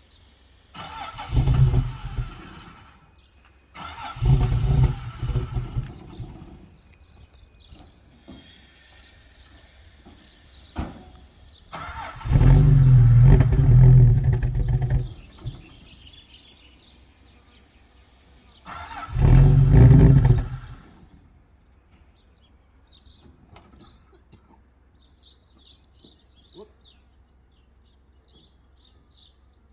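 Chrysler Hemi 265 straight-six being started four times, each attempt a burst of one to three seconds that does not keep running. The engine is starved of fuel by blocked fuel lines from a dirty tank.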